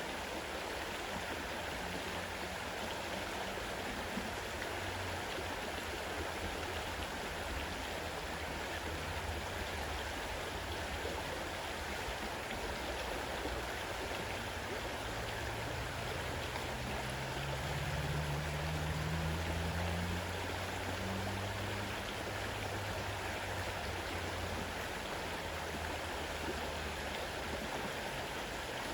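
Fast-running river water rushing steadily. A low rumble rises under it about midway, then fades back.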